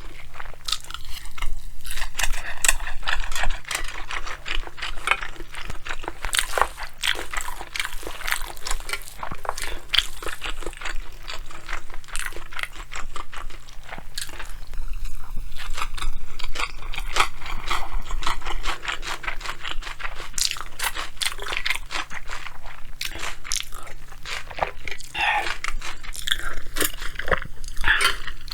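Close-miked chewing and crunching of a mouthful of bibimbap, a dense, irregular run of wet crackles and crunches.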